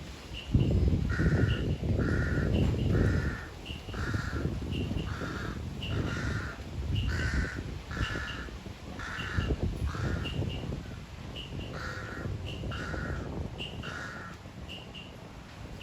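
A crow cawing over and over, about two caws a second, with a brief pause partway through. Under it is a low rumbling noise, loudest in the first few seconds.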